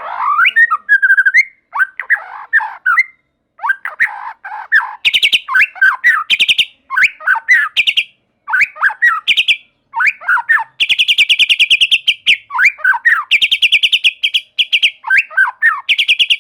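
White-rumped shama singing: varied whistled phrases that sweep up and down alternate with fast, dry rattling trills. The longest rattle comes about two-thirds of the way through.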